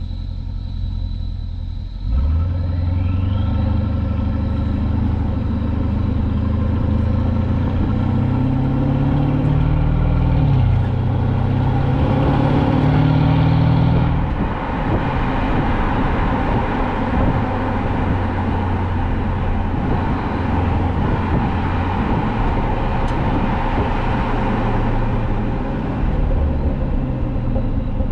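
Resonator-deleted exhaust of a Mercedes-Benz S550's twin-turbo V8 under acceleration. The engine note rises, breaks once at an upshift about ten seconds in, and climbs again. About fourteen seconds in the driver lifts off and it settles into a steadier, rougher drone.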